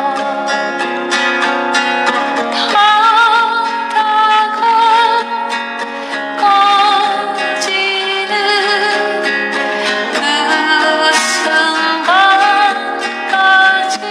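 Acoustic guitar strummed in a steady rhythm, with a sustained melody line with vibrato held over it: an instrumental passage between verses of a Korean folk song.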